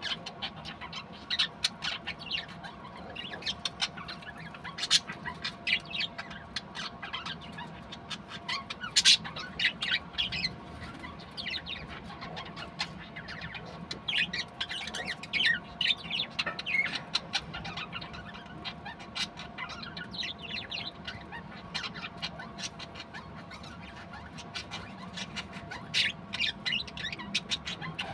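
Budgerigars chirping and chattering: many short, high chirps scattered throughout, some overlapping.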